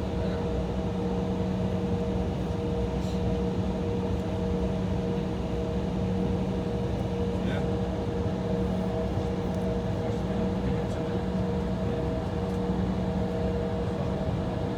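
Steady droning hum inside the cabin of an Embraer E175 jet airliner standing on the taxiway, with a few constant tones over an even rush of noise.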